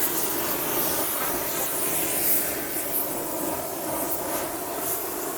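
Gas torch flame hissing steadily while heating a driveline part so that the mating part can be fitted in.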